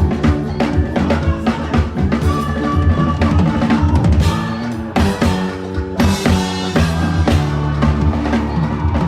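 Drum kit played in quick, dense strokes, with bass drum, snare and rimshots, over accompanying music that holds sustained pitched notes.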